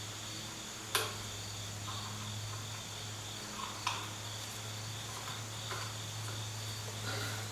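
Two sharp clicks of hand tools on metal, about a second in and nearly four seconds in, with a few fainter taps, over a steady low hum and a faint high whine.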